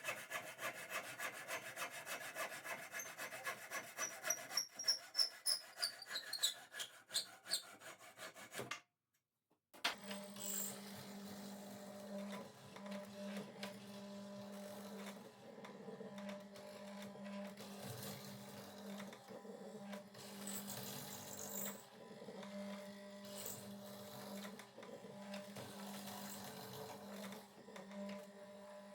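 Rapid back-and-forth strokes of a hand tool cutting or rasping wood for about the first nine seconds, stopping abruptly. After a brief silence, a steady low hum continues with scattered faint knocks and scrapes.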